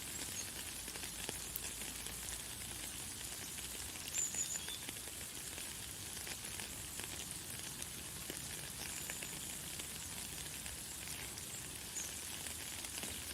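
Light, fine rain falling in a steady pattering hiss, with a few brief, high bird chirps now and then.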